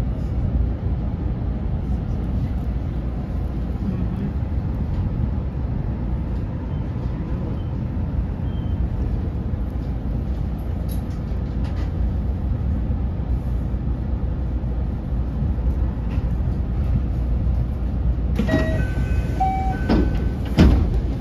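Steady low running rumble heard inside the cab of a JR West 227 series electric train as it pulls away from a station and gathers speed. A few short pitched tones and a sharp click come near the end.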